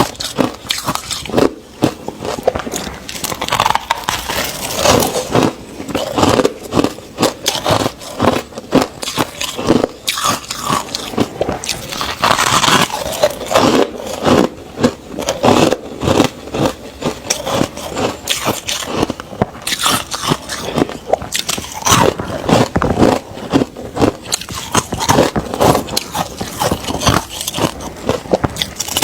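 Ice being bitten and chewed: a fast, continuous run of crisp crunches with only brief pauses.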